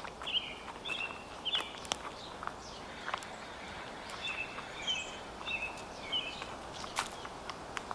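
Small songbirds chirping in short repeated high notes, a few at first and then a quick run of them midway, over footsteps crunching and crackling in dry fallen leaves, with one sharper crack near the end.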